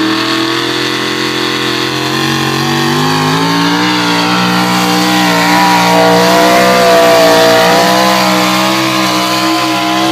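Pulling truck's engine running at high revs under load. Its pitch sags a little, climbs about two to four seconds in, then holds high with small wavers.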